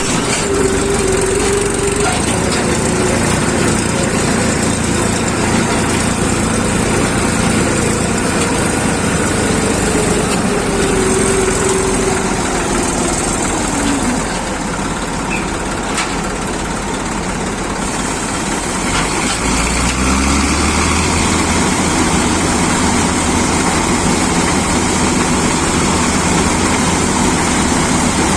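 Massey Ferguson 241 tractor's three-cylinder diesel engine running. A whine falls in pitch about halfway through, and the engine note grows louder and deeper about two-thirds of the way in.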